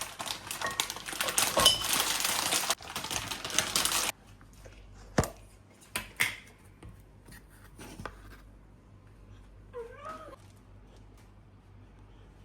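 Kitchen handling noises: a loud rustling hiss for about four seconds that cuts off suddenly, then a few sharp clicks and knocks, and a short rising-and-falling call about ten seconds in.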